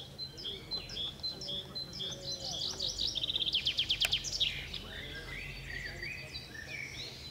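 Songbirds singing: many short, high chirps throughout, with a fast trill of rapidly repeated notes about halfway through.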